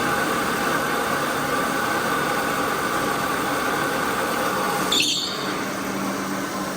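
A cleaning machine's motor running steadily, with a short high squeal about five seconds in, after which it runs on a little quieter and lower.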